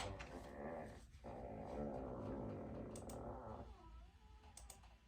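A long, squeaky fart sound effect played from an Alexa smart speaker. It is a wavering, drawn-out rasp lasting about two and a half seconds, with a shorter one just before it.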